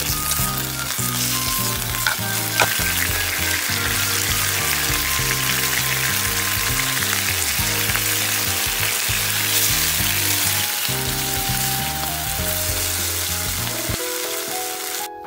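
Pork rolls sizzling in a frying pan in black-vinegar onion dressing, which bubbles around them as they are turned with chopsticks. There is a single sharp click about two and a half seconds in.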